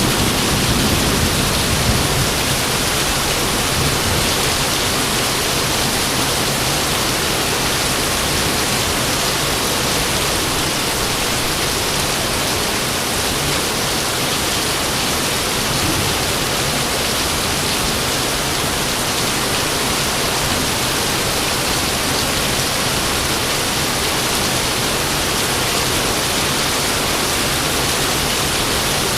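Heavy rain falling steadily, a dense, even hiss that hardly changes.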